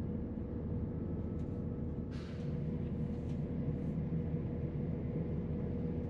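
Steady low rumble of a Class 168 diesel multiple unit on the move, heard from inside the passenger cabin, with a faint steady hum and a brief hiss about two seconds in.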